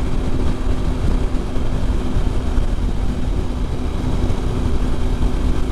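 Wind rushing over the microphone with the steady running of a Triumph Tiger 800's three-cylinder engine at highway speed, a low rumble with an even hum and no change in pace.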